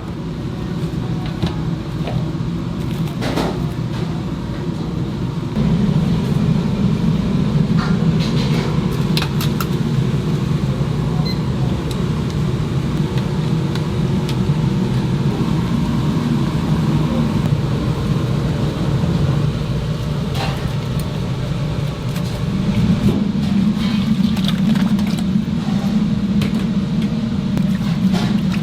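A steady low mechanical rumble with scattered light clicks and clinks. It grows louder about six seconds in, eases briefly near the twenty-second mark, then rises again.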